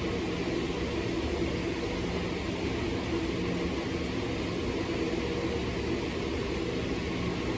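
Steady mechanical hum and rumble of a train standing at a station platform, with a few low held tones over an even hiss and no change in level.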